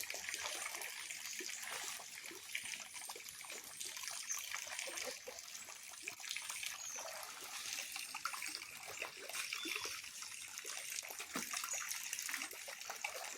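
Water trickling and splashing steadily in a small fish pond as it is cleaned out, with many small irregular splashes.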